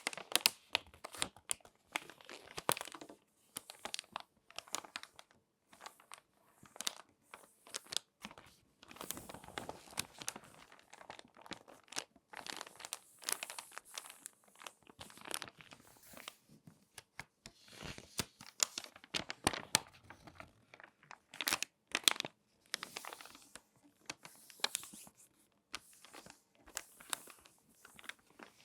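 Crinkly magazine pages being folded and creased by hand: dense bursts of papery crackling and rustling, coming in clusters with short pauses between them.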